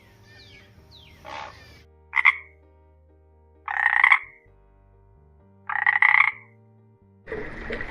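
An animal calling: one faint call, then three loud short calls about two seconds apart. A steady noise starts near the end.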